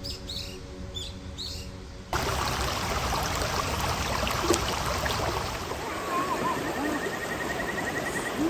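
Soft background music with high bird chirps, then an abrupt cut about two seconds in to a steady rush of water noise, with faint voices near the end.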